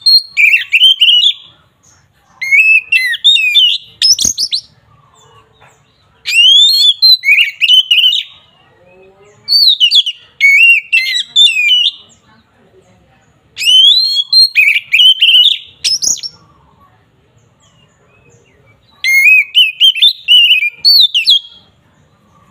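Oriental magpie-robin (kacer) singing loud, clear whistled phrases full of quick up-and-down glides, in bursts of about two seconds with short pauses between them and one longer pause past the middle.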